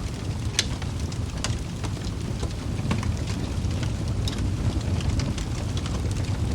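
Wood fire burning in a fireplace: a steady low rumble of flames with irregular sharp crackles and pops from the logs, the loudest pops about half a second and a second and a half in.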